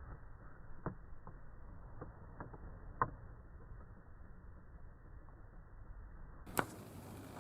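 Faint, muffled background hiss with a few short, sharp clicks, the loudest about three seconds in and another shortly before the end.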